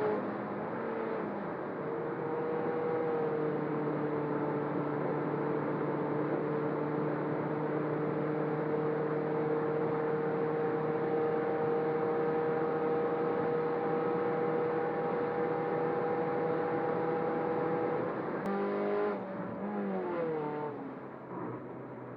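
Turbocharged Toyota Corolla Altis engine, with automatic transmission, running hard at steady high revs. About eighteen seconds in the note breaks off and falls away in pitch as the car comes off the throttle and slows.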